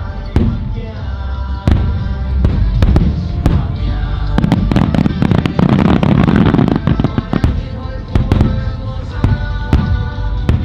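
Fireworks display: repeated firework shells bursting with sharp bangs, thickening into a dense run of overlapping bursts about halfway through, with music playing underneath.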